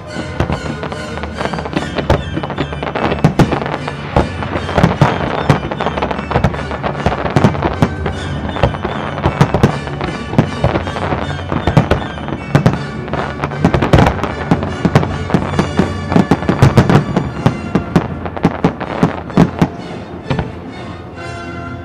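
A fireworks display firing continuously over its accompanying soundtrack music: many sharp bangs of bursting shells, thickest about two-thirds of the way through, easing off near the end.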